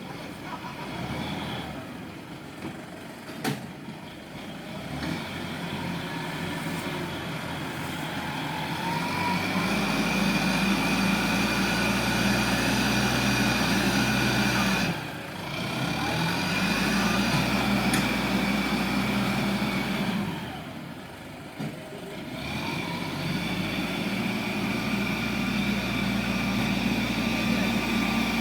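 Heavy diesel engine working at sand loading. It runs steadily, picks up revs about a third of the way in, and drops back briefly twice before picking up again.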